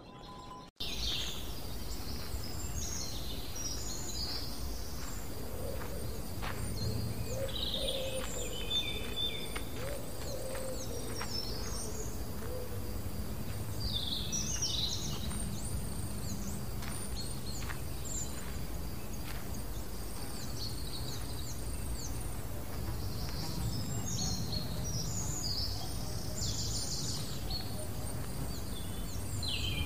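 Wild birds chirping and calling in a forest: many short, quick calls scattered throughout, over a steady outdoor background with a low rumble. It sets in abruptly about a second in.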